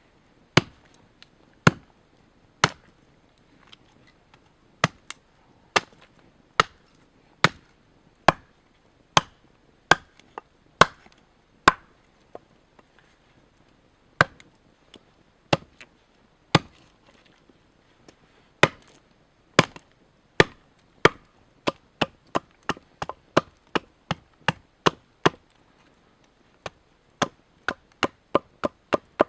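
Repeated chopping blows of a blade into wood: sharp single strikes about a second apart at first, quickening to two or three a second in the last third.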